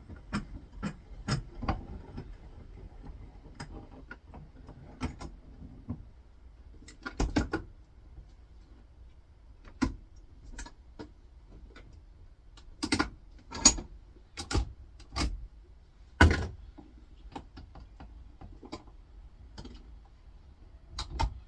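Hand tools and metal parts clicking and knocking while the copper coil reel is worked off a small electric motor: scattered light clicks, with a few sharper knocks in the middle stretch.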